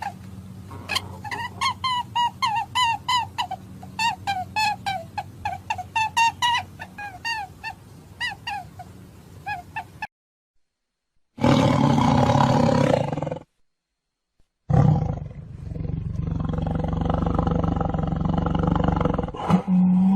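A run of separate animal sound clips: first about ten seconds of rapid, short, pitched calls, several a second; then, after a gap, a roar about two seconds long and a longer, louder roar from about fifteen seconds in.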